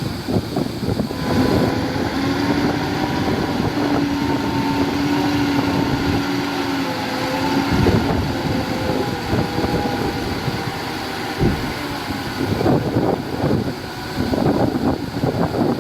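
Diesel engine of heavy earthmoving machinery running, with a steady engine tone that fades out about halfway through. Wind buffets the microphone.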